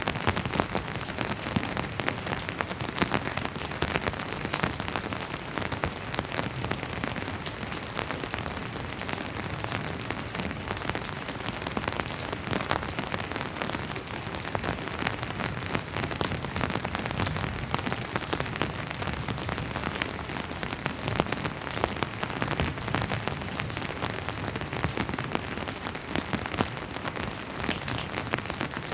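Steady rain: an even hiss thick with many separate drop splashes.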